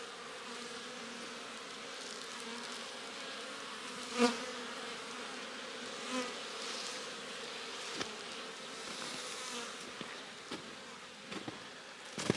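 Honey bees buzzing around an open hive: a steady hum, with single bees flying close past now and then, the loudest about four seconds in.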